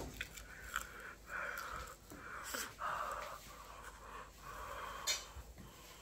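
Close-up mouth sounds of someone biting and chewing a fried chicken wing: wet chewing with breathy puffs and a few sharp mouth clicks, the sharpest about five seconds in.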